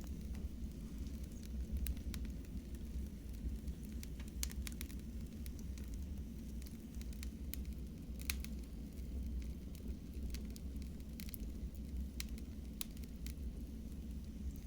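Wood fire burning in a fireplace: scattered sharp crackles and pops, irregular and some louder than others, over a steady low rumble.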